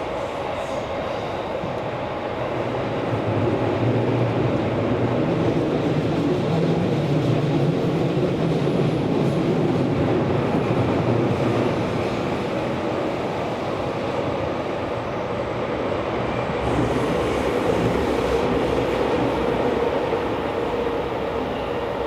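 Tokyo Metro Series 16000 subway train heard from inside the car while running through the tunnel: a steady rumble of wheels on rail with a low drone, louder from about three seconds in until about eleven seconds.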